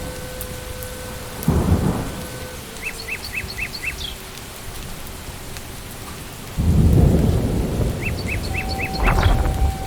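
Steady rain falling in a forest, with thunder rumbling briefly about a second and a half in and again, louder and longer, from a little past the middle. A bird calls a quick run of four or five chirps twice.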